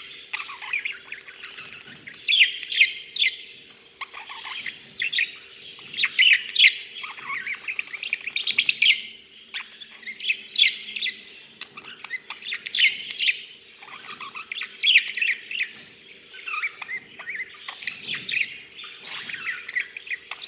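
A male budgerigar chattering and warbling: rapid runs of chirps, clicks and squawks in phrases a second or two long, with short pauses between them.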